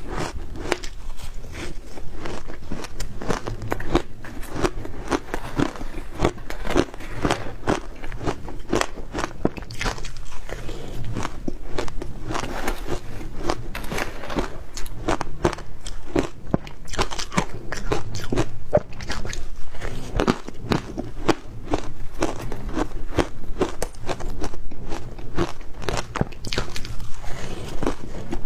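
Close-up crunching and chewing of ice coated in matcha powder: a dense, irregular run of sharp crunches as the ice is bitten and chewed.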